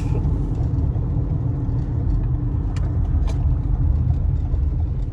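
Road noise inside a moving car's cabin: a steady low rumble from tyres on a rough road, with two faint ticks near the middle.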